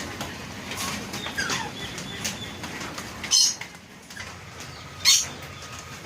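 Parrots in an aviary: a few short falling chirps, then two loud, brief rushes of wing-flapping about two seconds apart.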